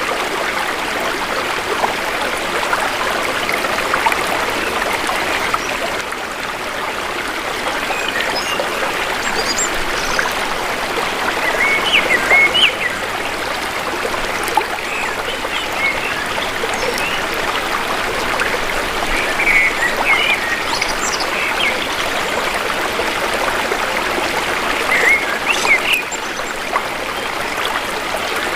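Shallow river flowing in a steady rush, with forest birds chirping in short scattered calls over it from about eight seconds in.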